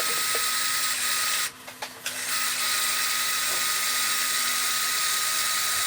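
Motor-driven grain mill running steadily as it crushes malt for the mash, a high whirring with a fine grinding hiss. It cuts out for about half a second about a second and a half in, then runs on.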